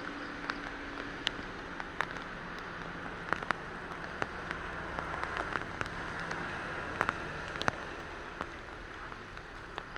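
Steady rain falling, with single drops striking a hard surface as sharp, irregular ticks over the even patter.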